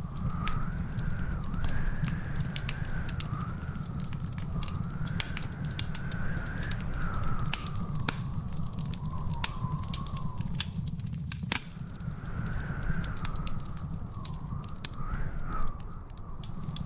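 Wood fire crackling, with frequent sharp pops and snaps over a steady low rumble. A thin whistling tone wavers slowly up and down behind it.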